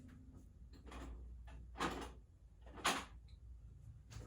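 Two short scrapes, about a second apart, from handling kitchen things, over a steady low hum.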